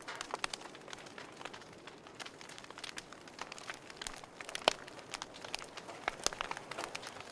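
Wood fire crackling in a fireplace: irregular sharp pops and snaps over a soft steady hiss of burning logs, with one louder pop a little after halfway.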